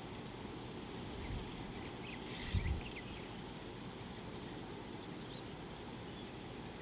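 Steady low background rumble, with a brief cluster of bird chirps about two and a half seconds in, at the same moment as a short low thump; a faint single chirp follows a few seconds later.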